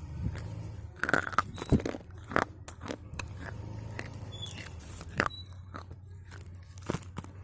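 Slate pencil being bitten and chewed: irregular sharp crunches and clicks of the brittle slate breaking between the teeth, loudest about a second in and again around five and seven seconds in.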